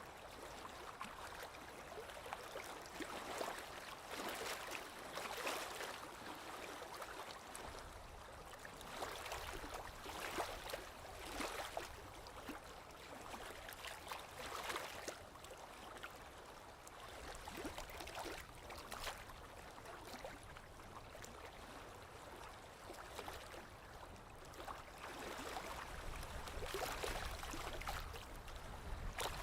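Small lake waves lapping against the shore, in irregular splashes every second or two. A low rumble builds near the end.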